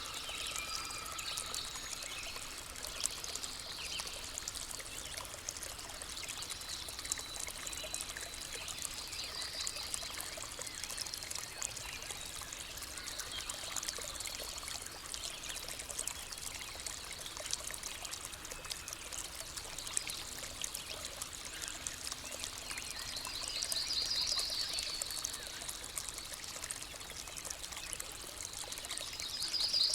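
A stream trickling and pouring steadily, with birds singing over it; short rapid bird trills come about a third of the way in, again near the end, and loudest right at the close.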